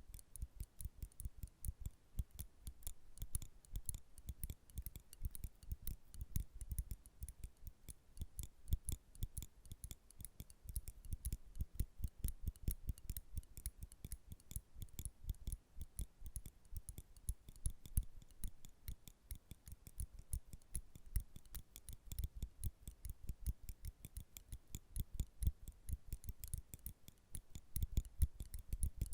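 Metal nail clippers snapping and clicking close to the microphone in rapid, irregular clicks, several a second.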